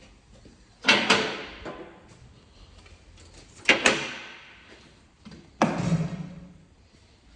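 A BMW X1's panels slammed shut three times, a couple of seconds apart. Each slam is a sharp double knock followed by a short ring.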